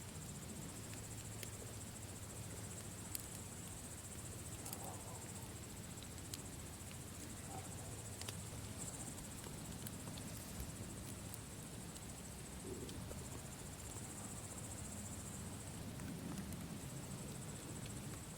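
Campfire burning with sparse sharp crackles and pops over a low steady rumble, with crickets chirring continuously in the background.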